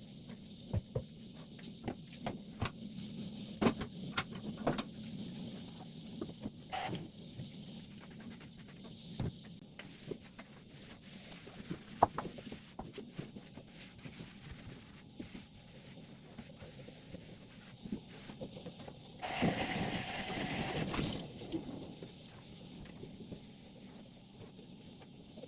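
Household cleaning and handling noises: scattered light knocks and clicks of objects being set down and moved, with a rush of noise lasting about two seconds about three-quarters of the way through.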